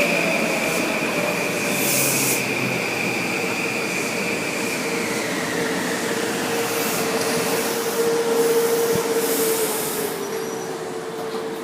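Passenger train squealing as it slows at the station platform: a steady high squeal and a lower tone both slide slightly down in pitch, with bursts of hiss over them, and the sound fades near the end.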